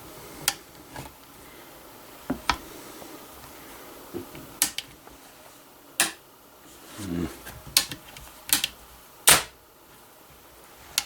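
Lock of a Dixie Tennessee Poor Boy flintlock rifle being cocked and snapped over and over to test its spark: about ten sharp metallic clicks of the cock and of the flint striking the frizzen, the loudest about nine seconds in.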